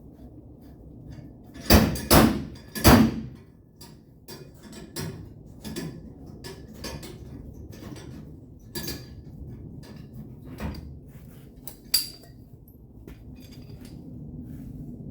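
Body hammer striking sheet-metal panel: three loud blows near the start, then scattered lighter taps and one sharp ringing hit later on, as the damaged area is worked level against a dolly.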